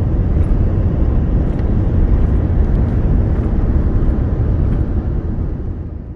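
Steady rumble of a moving vehicle: road and engine noise heard from inside, heaviest in the low end. It fades out near the end.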